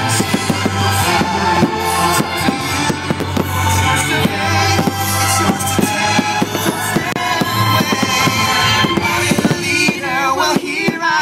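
A rapid, continuous run of aerial firework shell bursts, several a second, during a fireworks finale. Loud music with a singing voice plays through them.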